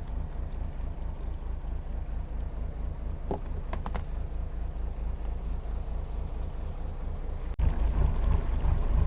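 Steady low rumble aboard a small fishing boat at sea, with a few faint clicks a little past three seconds in; the rumble gets suddenly louder about seven and a half seconds in.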